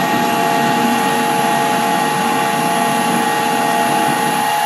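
Metal lathe running under power through an internal screw-cutting pass. A steady mechanical whine with several held tones over the drive and gear noise.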